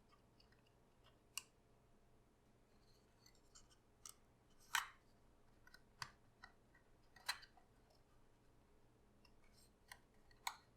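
Papercraft card being folded and handled: about half a dozen faint, sharp crinkles and clicks against near silence, the loudest a little before the middle.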